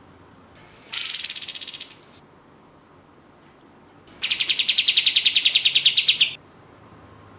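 Kapas tembak bulbul giving two bursts of a rapid, evenly repeated high trill, a short one about a second in and a longer one of about two seconds from about four seconds in.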